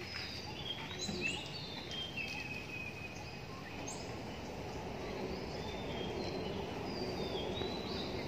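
Several birds chirping and whistling in short rising and falling calls, over a steady low background rumble.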